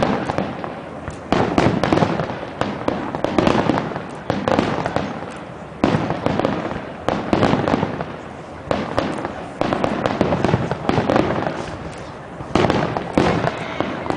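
Fireworks display: aerial shells bursting one after another, a loud bang every second or two with smaller pops and crackle in between.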